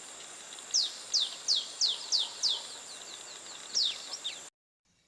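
A bird calling in a quick series of short whistled notes, each sliding down in pitch, about six in a row and then one more later, over a steady high-pitched background hiss. The sound cuts off suddenly about four and a half seconds in.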